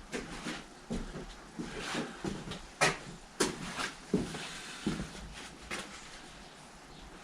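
Scattered clicks and knocks of a screwdriver prying and working a part into place, with two sharper clicks about three seconds in.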